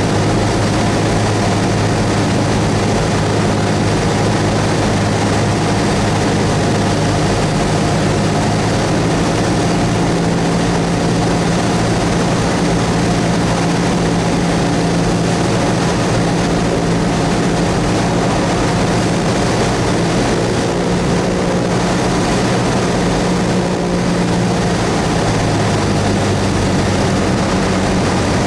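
Cessna 172S's four-cylinder Lycoming piston engine and propeller running with a steady drone, the pitch shifting slightly about a third of the way in and again later on.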